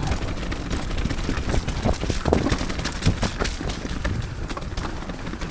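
Mountain bike descending a wet, muddy trail: a steady low rumble of tyres and riding noise, with many irregular sharp knocks and clicks as the bike clatters over the rough ground.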